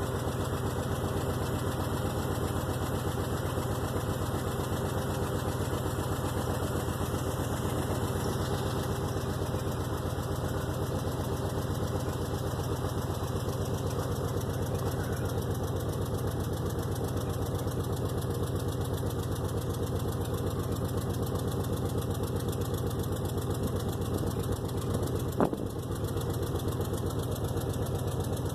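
An engine idling steadily, with one sharp click about 25 seconds in.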